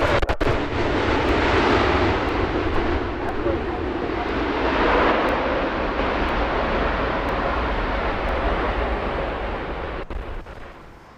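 Jet airliner's engines at takeoff power: a loud continuous roar that swells about halfway through and fades away near the end as the aircraft departs.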